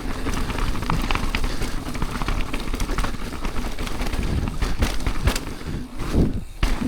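Mountain bike riding down a rocky trail: a steady crunch and rattle of tyres over loose stone, with many sharp knocks from the bike and a low rumble underneath. The sound eases off briefly about six seconds in.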